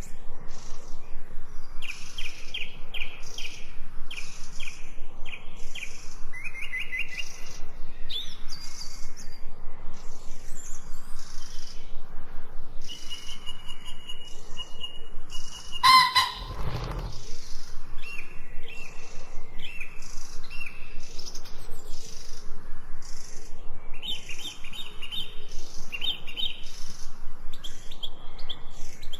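Songbirds chirping, with repeated short trilled calls over a fast, regular pulsing background. A single louder sound stands out about halfway through.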